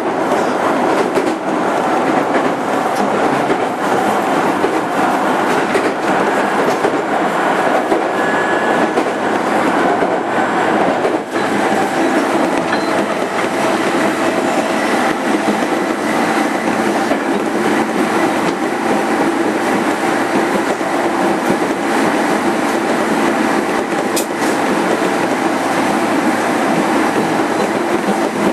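Running noise inside a JR 205 series 5000-subseries electric motor car (MoHa 205-5022) at speed: steady wheel-on-rail roar with occasional sharp clicks from rail joints, clearest about 11 and 24 seconds in.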